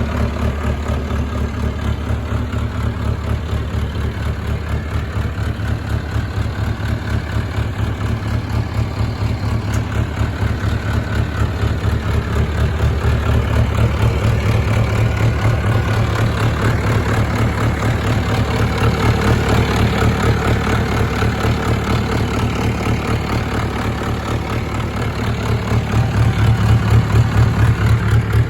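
1986 International 585 4WD tractor's four-cylinder diesel engine idling steadily with an even pulsing beat, getting a little louder near the end.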